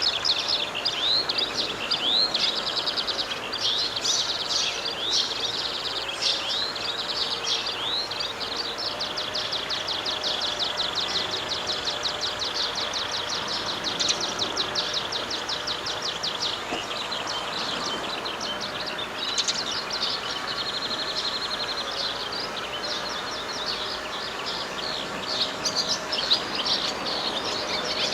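Several small birds chirping and singing at once, dense short chirps with rapid trills through the middle, over a steady outdoor hiss.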